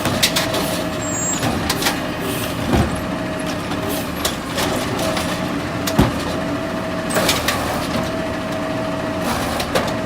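Garbage truck working a trash cart: the engine runs steadily under repeated clanks and knocks, with short hisses, while a steady warning tone sounds on and off with brief breaks.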